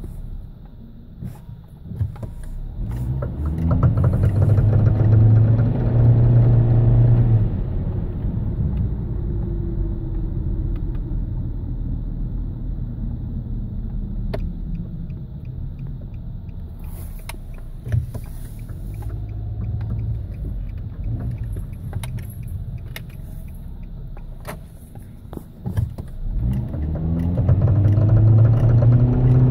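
2008 Nissan Rogue's 2.5-litre four-cylinder engine running, its revs rising a few seconds in, holding, then easing back, and rising again near the end, with scattered sharp clicks over it. The car is being recorded for a ticking noise.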